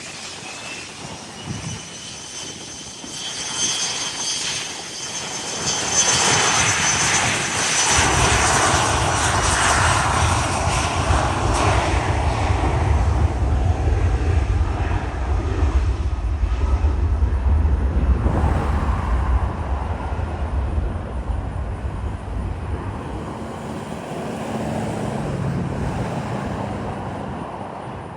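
Business jet's engines: a high whine at first, then a loud, deep rumble for over ten seconds as the jet goes by, fading away near the end.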